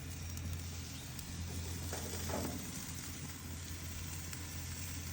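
Chicken pieces sizzling on a grill, a steady even hiss.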